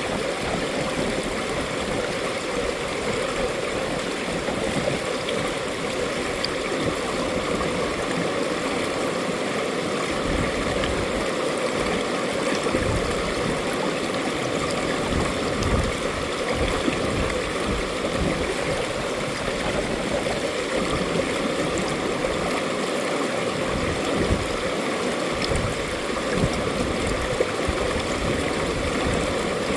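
Valley stream running steadily, a continuous rush and gurgle of flowing water.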